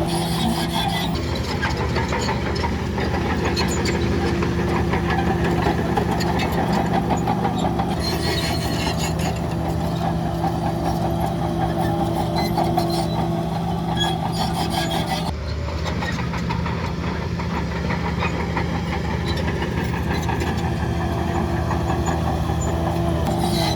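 Diesel engine of heavy earthmoving machinery running steadily, with a dense clatter over it. The sound changes abruptly about fifteen seconds in, its hiss dropping away.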